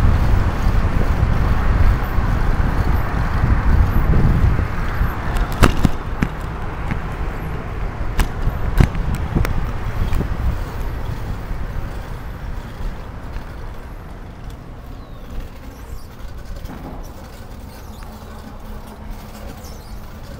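Wind buffeting the microphone with rolling road noise during a ride along a street, dying down over the second half. A few sharp clicks come about six and nine seconds in.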